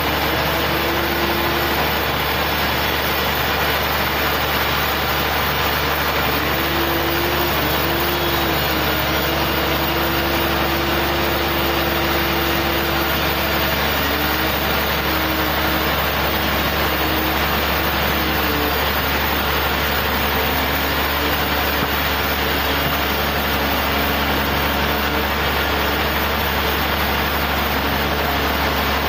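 A sawmill machine running steadily: a loud engine and saw drone with a tone that dips and rises in pitch now and then.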